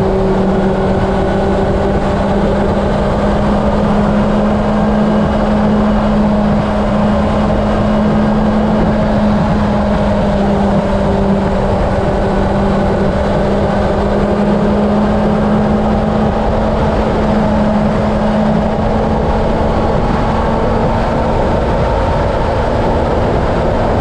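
Honda CB750 inline-four engine running at a steady highway cruise, a constant drone with rushing wind noise over it.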